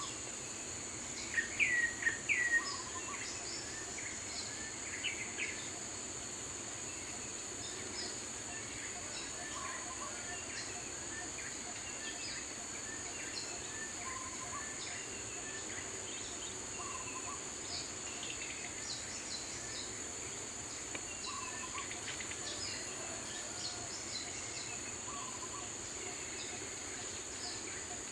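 Daytime forest ambience: a steady high-pitched insect drone with scattered bird chirps and calls. About two seconds in, a nearby bird gives a short burst of louder swooping calls, and a low short note recurs every few seconds.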